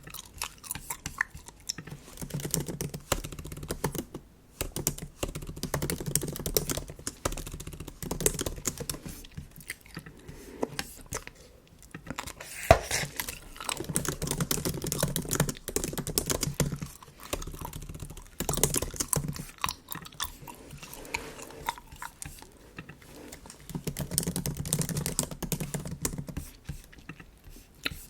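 Bubble gum chewed wetly and close to the microphone, with the small clicks of MacBook keyboard typing mixed in. There is one sharp snap near the middle.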